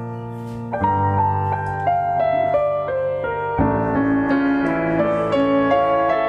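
Background piano music: a slow melody over sustained chords, with new chords struck about a second in and again past the middle.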